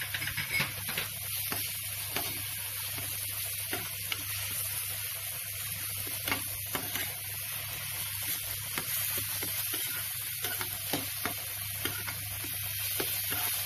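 Chopped tomato, onion, garlic and green chilli sizzling in a frying pan while being stirred, the metal spatula scraping and clicking against the pan. This is the tomato being fried into the masala base.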